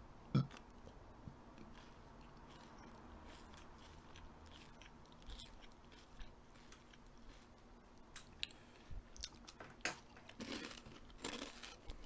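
Faint crunching and chewing of something eating: scattered soft crunches and clicks, with one sharper click about half a second in and the crunches coming thicker over the last few seconds.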